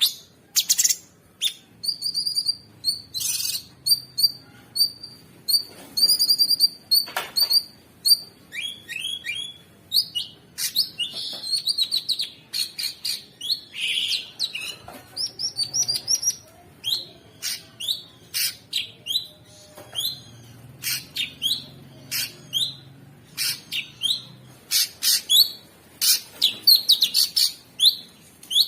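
Cucak sungkok songbird singing a busy, rough song of short, sharp, high chirps and calls in quick succession with barely a pause.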